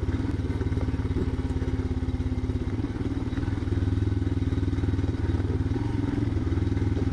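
Motorcycle engine running steadily under way, its exhaust pulsing evenly as the bike rides along a dirt track.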